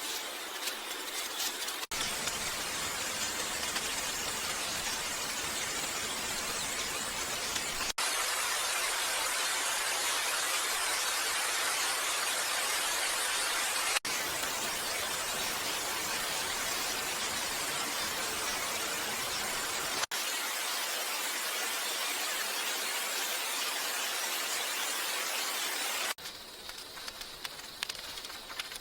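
Steady rain falling, an even hiss that changes character at abrupt cuts about every six seconds and turns quieter near the end.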